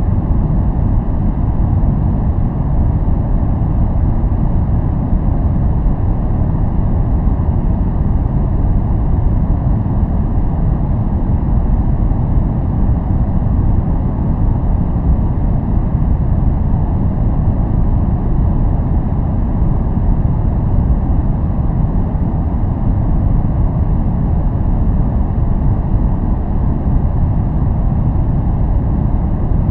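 Continuous, unvarying noise for relaxation and focus, with most of its weight in the low end: a deep, even rumble rather than a bright hiss.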